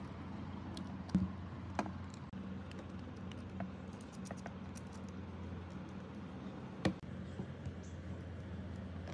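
Light scattered clicks and taps, as of small tool parts being handled, with three sharper knocks, over a steady low hum.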